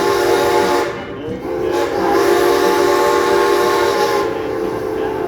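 Steam locomotive whistle blowing in long, steady blasts: one ends about a second in, and a second runs from about two seconds in to just past four.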